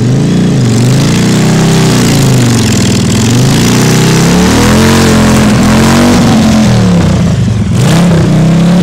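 Motorcycle engine revving loud and hard, its pitch climbing and falling again and again, as the bike spins its rear wheel to dig itself down into the ground.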